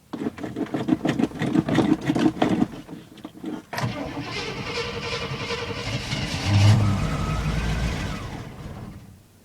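Carbureted 400 small-block V8 of a 1979 Chevy ambulance being cranked by its starter for a few seconds on a cold start at about ten below zero. About four seconds in it catches and runs roughly, rising once near the seventh second, then dies away and stalls.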